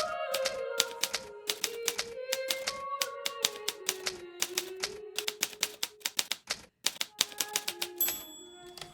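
Hermes Baby portable typewriter being typed on in quick runs of keystrokes, with a brief pause about two-thirds of the way through. Soft background music with slow held notes plays underneath.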